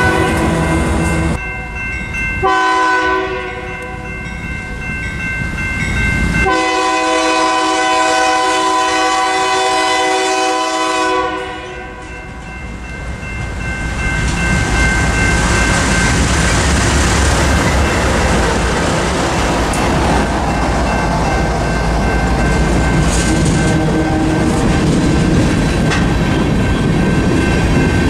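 Diesel locomotive's multi-chime air horn sounding a few blasts, the last about five seconds long, then the train rolling past with a steady rumble and the clatter of wheels on rail joints.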